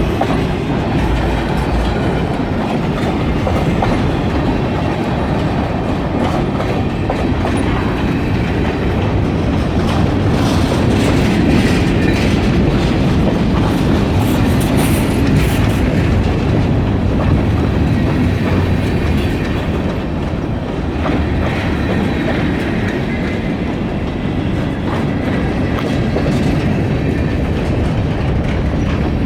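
Freight train rolling past close by, its steel wheels clacking over the rail joints in a steady, continuous rumble.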